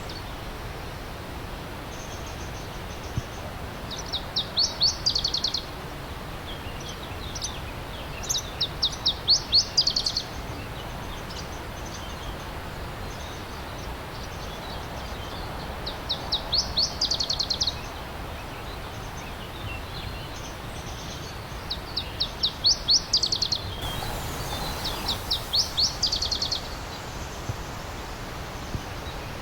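A songbird singing five short phrases, each a rapid trill of high notes lasting about a second and a half, over the steady rush of a flowing stream.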